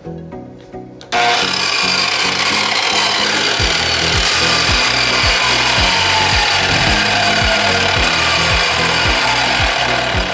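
Miter saw with a metal-cutting blade starts up about a second in and cuts aluminum extrusion, a loud, steady cutting noise. Background music with a regular beat plays underneath.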